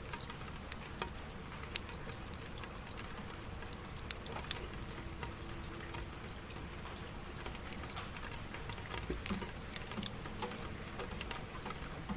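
Steady rain falling, with individual drops ticking sharply and irregularly over the constant patter.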